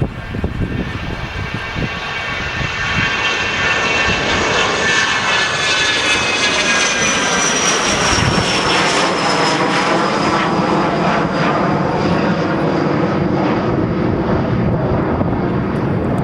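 Jet airliner flying past: its engine noise builds over the first few seconds and then holds, with a high whine that slowly falls in pitch as it goes by.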